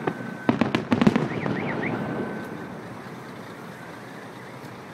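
Aerial firework shells bursting: a quick run of sharp bangs in the first second or so, then crackling that dies away about two seconds in.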